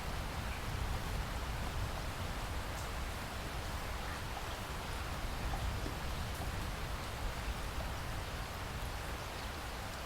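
Steady rain falling in a rainforest, an even hiss with scattered drops pattering.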